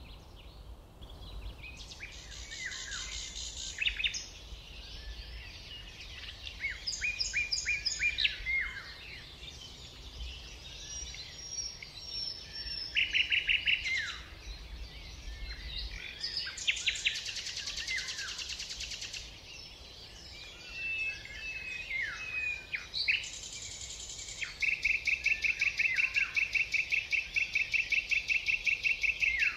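Songbirds singing and calling: a series of varied chirps and quick trills, then one long, even, rapid trill over the last few seconds.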